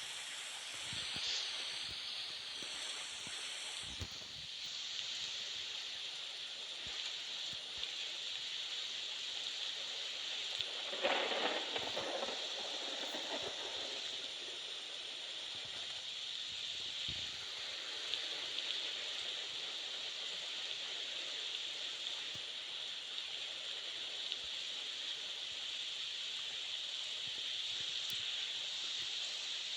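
Steady hissing rolling noise of a mountain bike on a trail, with a louder, rougher stretch about eleven seconds in.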